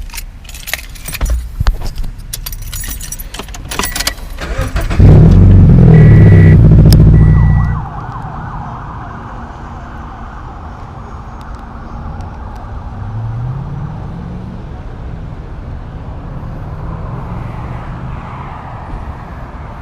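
Keys jangling and clicks, then a car engine starts with a loud burst of revving for a few seconds and settles to a steady run. About halfway through, the engine climbs in pitch as the car accelerates.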